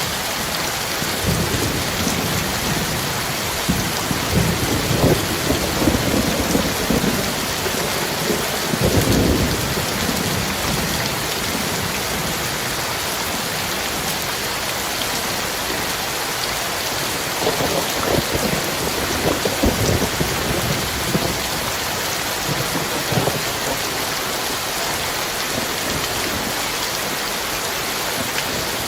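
Heavy rain pouring steadily, with two long rolls of thunder rumbling low under it, one in the first third and another past the middle.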